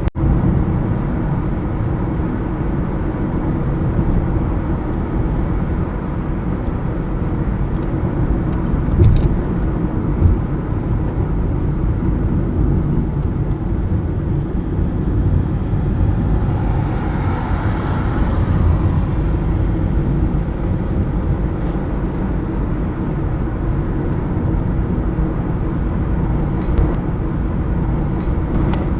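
Car driving on a mountain highway: steady tyre and engine rumble. A louder swell of noise rises and fades about two-thirds of the way in.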